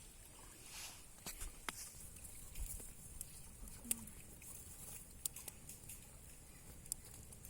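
Campfire of sticks crackling, with irregular sharp pops and snaps over a faint hiss.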